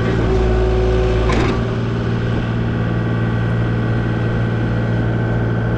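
Diesel engine of a piece of compact earthmoving equipment running steadily, with a deeper rumble in the first second or so and a single sharp knock about a second and a half in.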